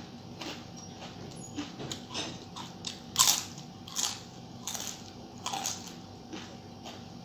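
A person biting and chewing crunchy food close to the microphone: a series of crisp crunches, roughly one every half second to a second, the loudest a little after three seconds in.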